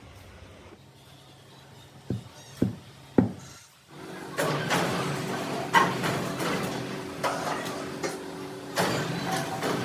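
Metalworking shop sounds: three sharp metal knocks, then a machine starts running with a steady hum and rasping noise, punctuated by occasional clanks.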